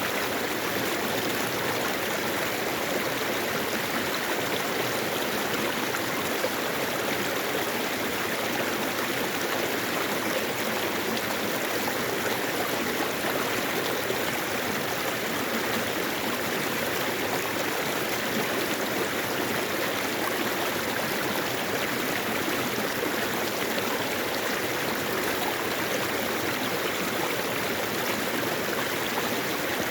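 Mountain valley stream running steadily over rocks, a continuous rush and babble of flowing water.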